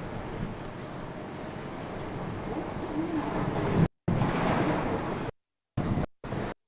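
Steady outdoor background noise, with no clear voice or machine standing out. In the second half the sound cuts out completely several times, in brief drop-outs typical of a glitching live feed.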